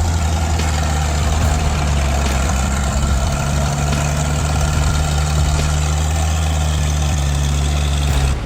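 A heavy truck engine runs steadily at an even, low pitch, then cuts off abruptly just before the end.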